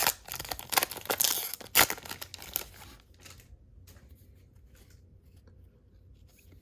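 Trading card pack wrapper torn open and crinkled, loud for about the first three seconds, then dying down to a few faint rustles and clicks.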